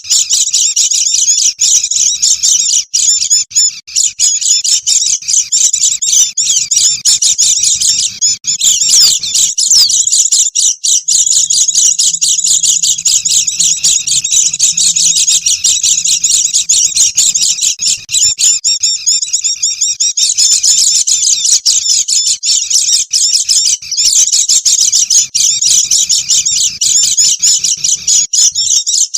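A noisy flock of white-eyes (pleci) chattering, with fast, high-pitched twittering calls overlapping without a break. It is a lure recording used to draw wild birds in.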